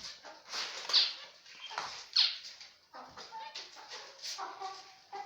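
Zebra finches calling: a string of short, high chirps. The loudest are two sharp calls that sweep down in pitch about one and two seconds in.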